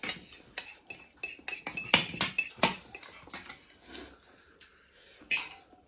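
Eating utensils clinking and scraping against plates and bowls during a meal: a quick run of sharp clinks for about three seconds, then only a few scattered ones, with one louder clatter near the end.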